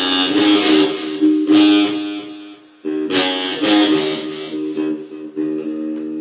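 Guitar playing blues, strummed chords and picked notes. Near-stop about two and a half seconds in, then the playing resumes and ends on a chord left ringing and slowly fading.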